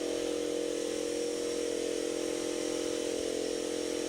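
A motor or engine running steadily, an even hum that holds one pitch with no change.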